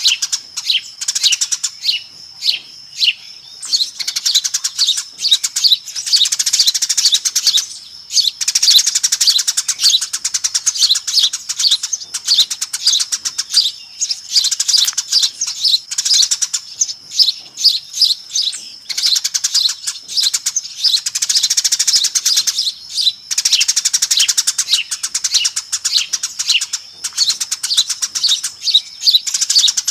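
A flock of Eurasian tree sparrows chirping busily: rapid, dense high chirps, many birds at once, with brief lulls every few seconds, used as a sparrow lure call.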